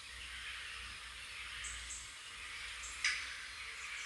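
Outdoor nature ambience: a steady high hiss with a few faint, short, high bird chirps, and one brief sharp click about three seconds in.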